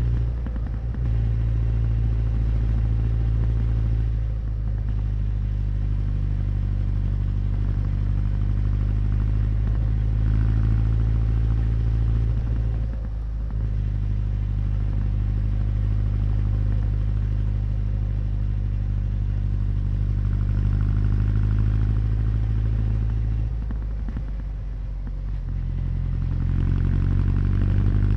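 Honda CB1100's air-cooled inline-four engine and exhaust running steadily while riding, with a low, even engine note. It eases off briefly a few times and more deeply for a couple of seconds near the end, then picks up again.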